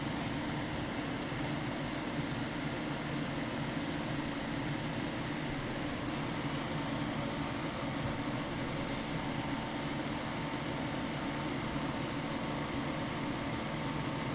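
Steady machine hum and hiss with a faint high whine, overlaid by a few faint light clicks.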